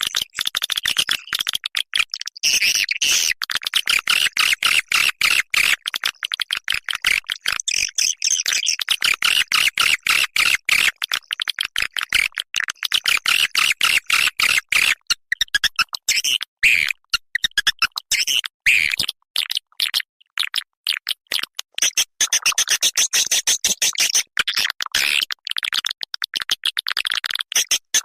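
Swiftlet lure call played as a recording: a dense stream of rapid, high chirps and clicks without a break, the kind of calling sound used to draw swiftlets into a nesting house.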